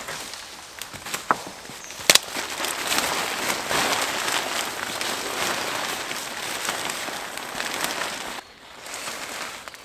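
A few sharp knocks and clicks, then about six seconds of dense, crackly rustling that stops suddenly near the end, as of material being handled.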